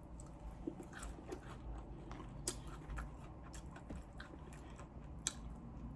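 Close-up chewing and biting of crispy fried chicken wings: irregular crunchy clicks, a few a second, between softer mouth sounds.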